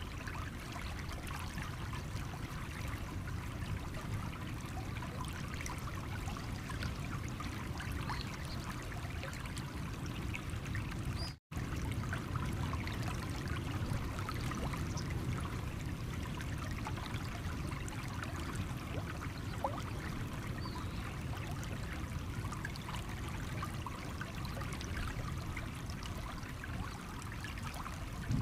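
Shallow stream running over stones, a steady trickling and babbling flow. The sound drops out completely for a split second about eleven seconds in.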